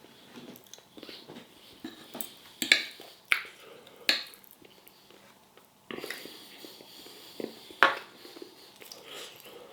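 Cutlery clinking against a plate in a few sharp taps, with quieter handling and eating sounds between them.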